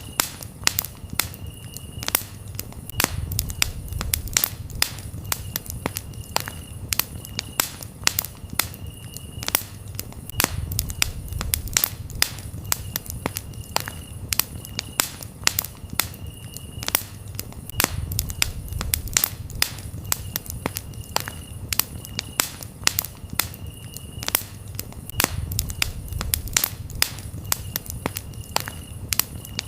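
Campfire crackling, with sharp pops and snaps at irregular intervals over a low, steady rumble of burning wood. Crickets chirp in short, high-pitched trills that repeat every second or two.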